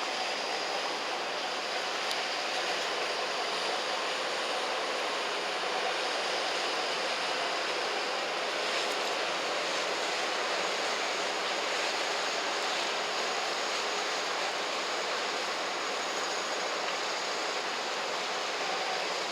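Steady, even rushing noise of riverside ambience, such as moving river water with distant city sound, with no distinct events.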